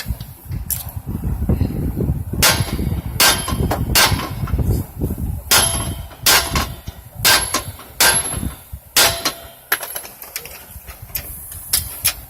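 Sledgehammer blows on a steel lower control arm: a series of sharp, ringing metal clangs, roughly one a second. The hammering helps a jack press a new lower ball joint into a 1998 Mercury Mountaineer's control arm.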